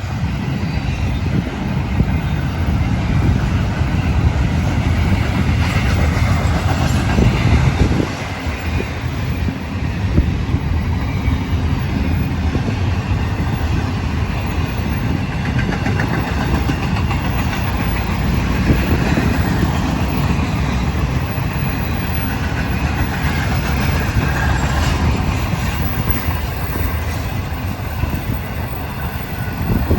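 Florida East Coast Railway train rolling past, a continuous rumble of wheels and cars on the rails.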